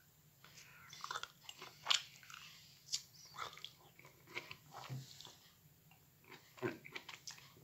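A person biting into and chewing peeled mandarins close to the microphone: irregular short clicks and mouth noises of chewing.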